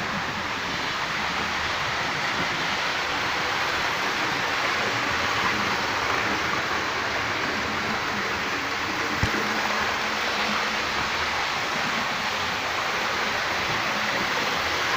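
Hornby model trains running at top speed on their track, making a steady even rushing noise, with a single sharp click about nine seconds in.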